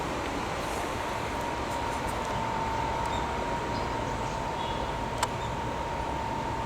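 Railway station platform ambience beside a standing train: a steady hum with a constant high tone, and one sharp click about five seconds in.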